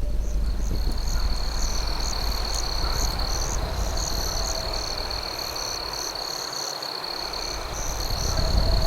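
Night chorus of crickets: one steady high trill with rhythmic chirping above it, over a low rumble that dips for a moment about six seconds in.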